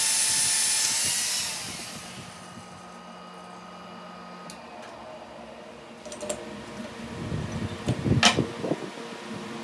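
A power tool running with a high whine, then winding down and stopping within the first two seconds, followed after a quiet stretch by irregular knocks and clatter of metal being handled, loudest about eight seconds in.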